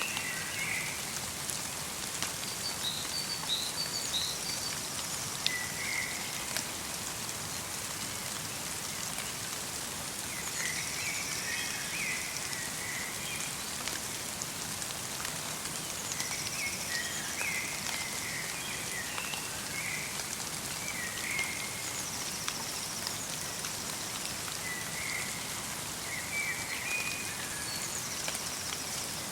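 Light rain falling steadily in a forest, with small birds chirping in short phrases every few seconds.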